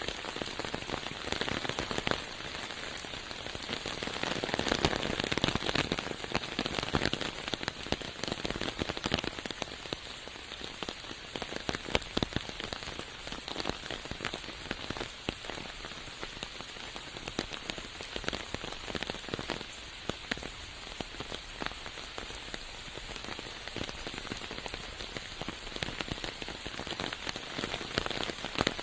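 Steady rain falling through forest, a dense patter with many sharp individual drop hits throughout; it is a little heavier about four to seven seconds in.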